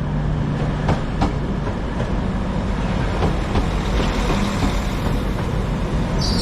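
Passenger train rolling into a station platform: a steady rumble of the running train, with a couple of sharp clacks from the wheels over rail joints about a second in and a high wheel squeal setting in right at the end.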